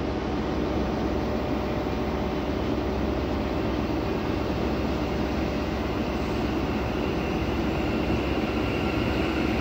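Passenger train running slowly into the platform: a steady rumble and hum of the approaching multiple unit, with a faint high whine coming in near the end.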